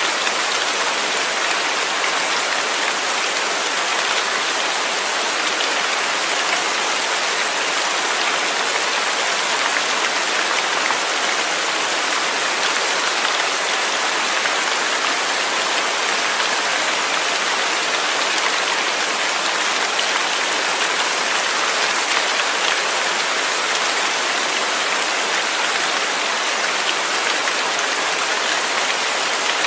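Steady heavy rain falling, a dense even hiss of drops with no change in strength.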